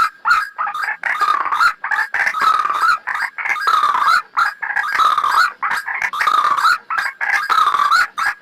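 White-breasted waterhen (ruak-ruak) calling: an unbroken series of croaking notes, several a second, wavering in pitch.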